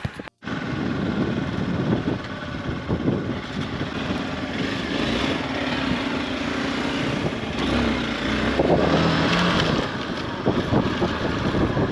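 Motorcycle running on the move, a dense mechanical sound that starts suddenly after a brief dropout and swells somewhat in the second half.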